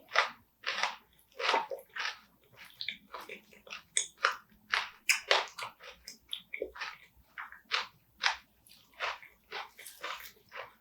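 Close-up chewing and crunching of spicy marinated raw crab (yangnyeom gejang) topped with cheongyang chili peppers: sharp, irregular crunches, about one or two a second.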